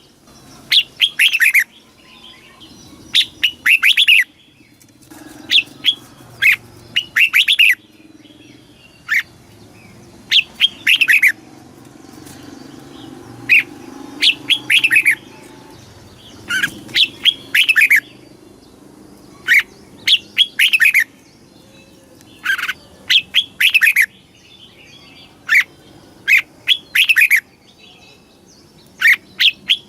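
Red-whiskered bulbul singing: short, loud phrases of a few quick notes, repeated every second or two.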